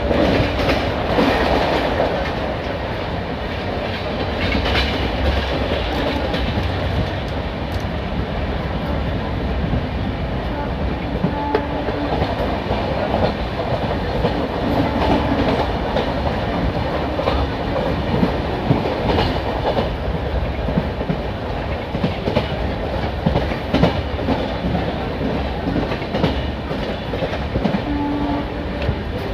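Train wheels running along the track at speed: a steady rumble with frequent clicks as the wheels pass over rail joints.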